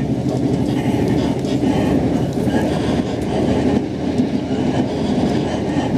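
Xplorer diesel multiple unit running at speed, heard from on board: a steady low rumble of the diesel engine and the wheels on the rails.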